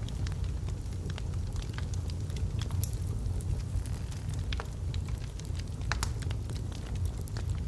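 Wood logs burning in a fireplace: scattered sharp crackles and pops over a steady low rumble of the flames.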